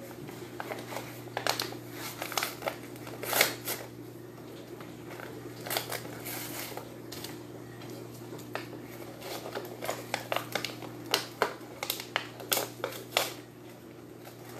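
Irregular light clicks, taps and rustles of small craft items and packaging being handled, over a steady low hum.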